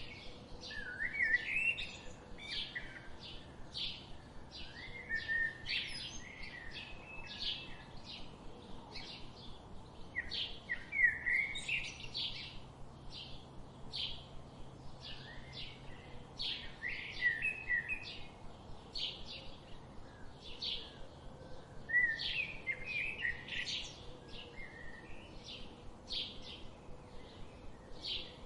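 Birds chirping: a steady stream of short high chirps, about two a second, broken every few seconds by bursts of lower warbling song.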